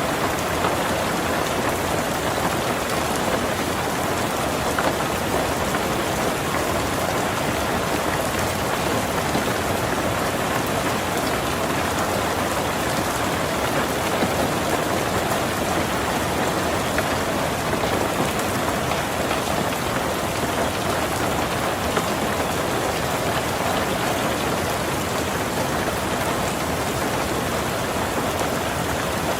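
Heavy rain falling steadily on a tin roof: an even, unbroken hiss of dense raindrops.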